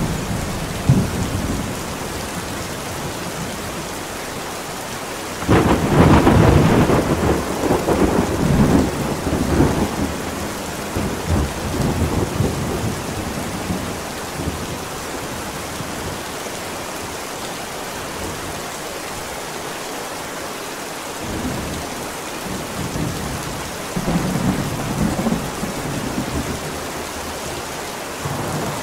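Steady heavy rain with rolling thunder: a loud thunderclap breaks in about five seconds in and rumbles on for several seconds, with lesser rumbles later, one near the end.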